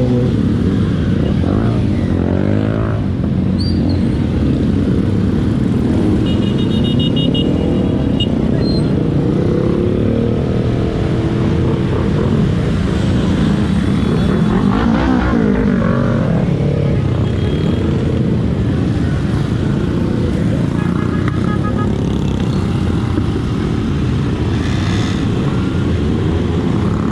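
Motorcycle engines running on a group ride, heard over heavy wind rush, with the revs rising and falling. Short runs of beeps come about six seconds in and again around twenty-one seconds.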